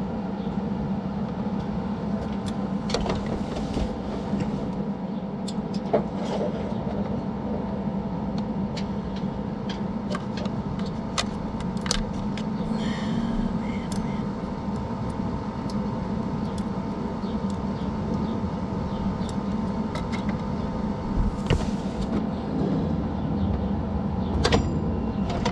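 Steady mechanical hum with scattered short clicks and taps.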